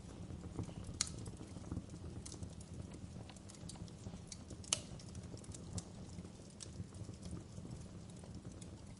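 Fireplace fire crackling: a low steady rumble with scattered sharp pops and snaps, two louder ones about a second in and near the middle.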